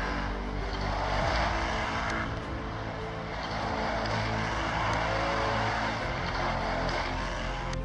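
Power Craze Shift 24 RC car's electric motor and gearbox whining as it drives off-road, the pitch rising and falling with the throttle.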